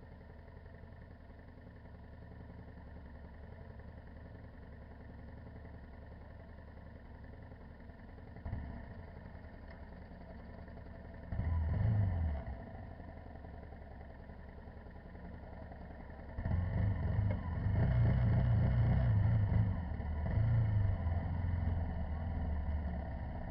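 Dirt-bike engine heard from an onboard camera, running low at first, then rising in louder bursts of throttle: one short burst, another a few seconds later, and a long loud stretch near the end.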